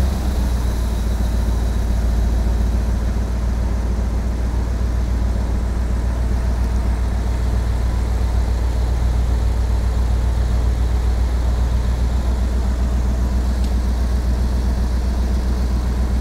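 1959 Ford Skyliner's V8 idling steadily with a deep, even rumble, freshly started on a hot day and so not truly cold.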